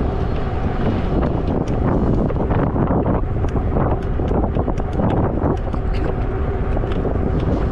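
Wind buffeting the microphone over the rumble of a Zota Zephyr 20-inch fat-tire folding e-bike being ridden on pavement, with a steady faint hum and scattered small clicks and rattles.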